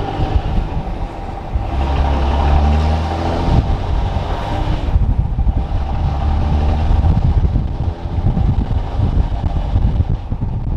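2006 Dodge Ram's 5.9-litre Cummins inline-six turbodiesel pulling hard through the gears of its six-speed manual: the revs climb, drop at a shift about three and a half seconds in, climb again and drop at another shift near the end.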